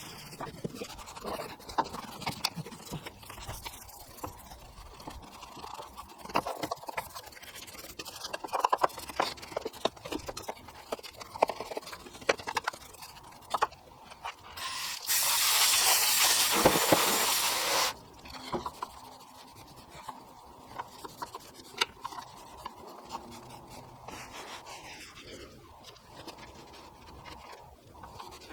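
Scrubbing in a car's engine bay: scattered scrapes and clicks of a detailing brush on plastic and metal, with a steady spray hiss, the loudest sound, lasting about three seconds a little past the middle.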